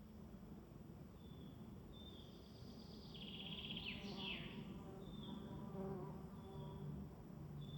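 Forest ambience. A bird repeats a short high whistled note every second or two, and another bird gives a quick trill with falling notes about three seconds in. An insect buzzes close by from about four seconds in.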